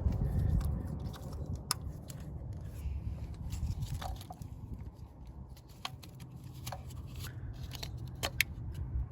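Plastic wiring-harness connectors and loose wiring being handled and pushed onto engine sensors and injectors: scattered sharp clicks and light rustling over a low steady hum.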